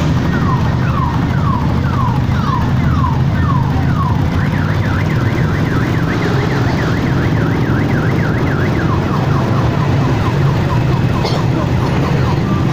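Electronic siren cycling through its tones: about two falling sweeps a second, then a fast rising-and-falling warble from about four seconds in, then slower sweeps again. Underneath is a steady low rumble of motorcycle engines.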